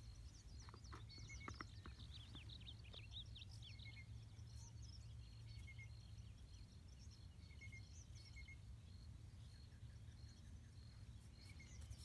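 Faint bird chirps: short high calls scattered throughout, over a low steady hum, with a few soft clicks in the first two seconds.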